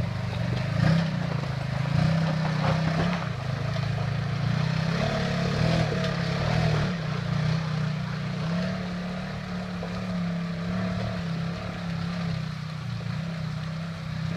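Polaris RZR XP 4 900 side-by-side's twin-cylinder engine running under load, its pitch wavering up and down a little as the throttle changes.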